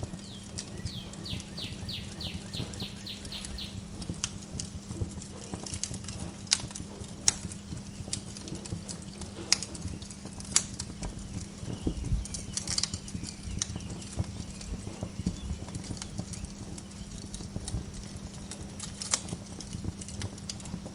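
Wood fire crackling, with irregular sharp pops over a steady low rumble. In the first few seconds a bird gives a quick run of repeated high chirps, about four a second.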